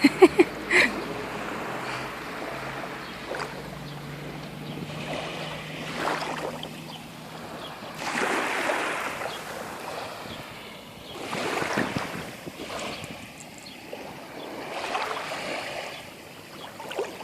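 Small sea waves washing in and out over a pebble shore, swelling every few seconds, with a low steady hum under the first half.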